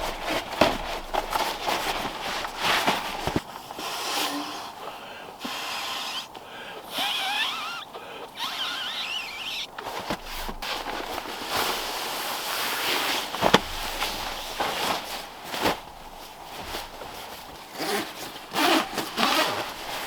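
Cloth rustling and irregular handling knocks as a shirt is pulled on and he settles in for the night.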